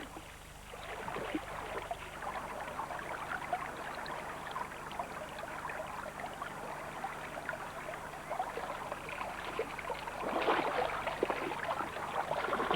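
Fresh spring water running and splashing with a steady, crackling trickle that grows louder about ten seconds in.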